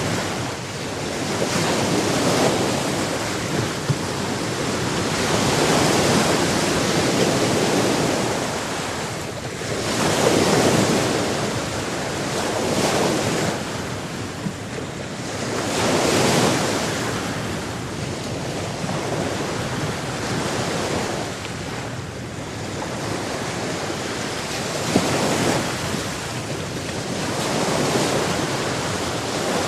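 Sea surf washing in and drawing back in slow swells every few seconds, over a steady rush of water.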